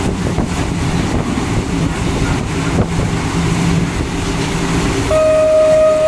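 Local passenger train running, heard through an open carriage window: a steady rumble of wheels on rails and wind, with a low hum and some faint clicks. About five seconds in, one steady horn note sounds and holds for over a second, most likely the diesel locomotive's horn.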